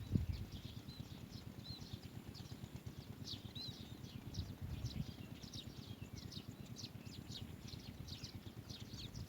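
Asian green bee-eater chicks chirping: a rapid run of short, high chirps, several a second, over a low rumble.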